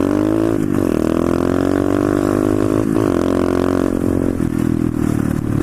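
Pit bike engine running at high revs under throttle, its pitch dipping briefly and climbing back twice, then holding a little lower near the end.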